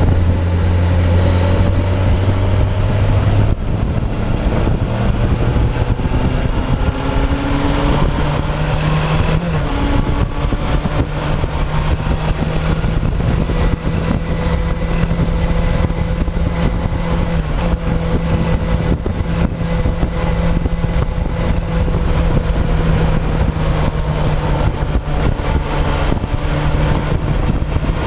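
Motorcycle engine running under way, heard from a tank-mounted camera over heavy wind and road rush. The engine note changes about three and a half seconds in, then climbs gradually and holds fairly steady.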